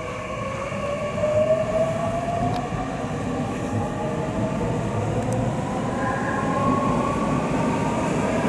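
Eight-car JR Central 315 series electric train pulling away, its motor whine rising steadily in pitch and growing louder as it gathers speed over a rumble of wheels on rail.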